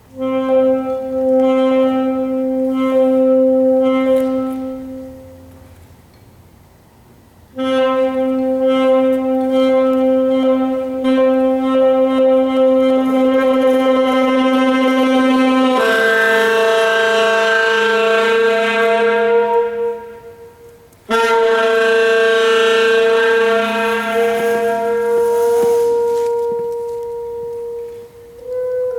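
Saxophone playing long sustained notes of several seconds each, with short pauses between them. The later notes sit lower and sound brighter and louder.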